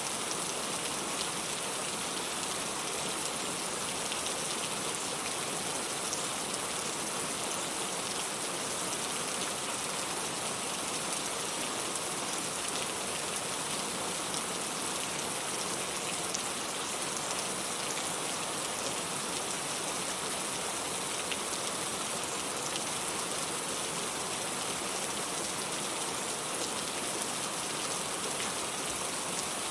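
Steady rain falling, an even, unchanging hiss with faint scattered drop ticks.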